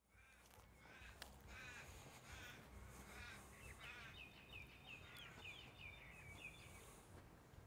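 Birds calling faintly: about five harsh calls, evenly spaced, then a quick run of high chirps from about halfway through.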